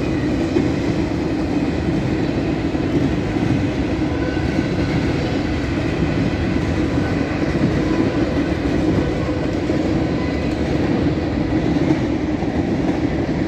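Cars of a long CSX mixed freight train rolling past close by: a steady rumble of steel wheels on rail that carries on without a break.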